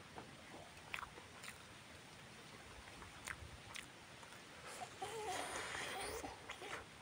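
A person chewing and biting mouthfuls of boiled chicken, squash and rice close to the microphone, with scattered wet mouth clicks and smacks. A longer, louder run of wet mouth noise comes about five seconds in.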